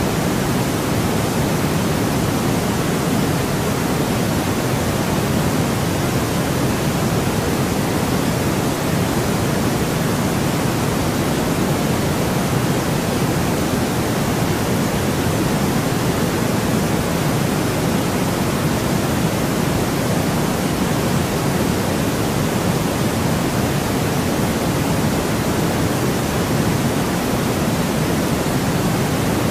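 Steady, unchanging white noise: an even hiss weighted toward the low-middle range, with no variation or events.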